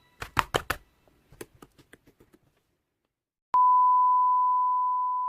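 A few faint clicks die away, then after a second of silence a steady electronic beep starts abruptly about three and a half seconds in: one pure, unwavering tone, slowly fading.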